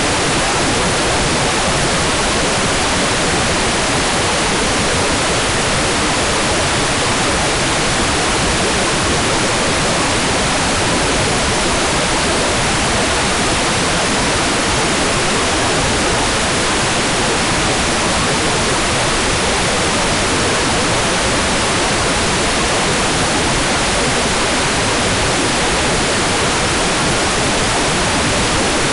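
Hair dryer running steadily: a loud, unchanging rushing noise with no breaks or changes in pitch.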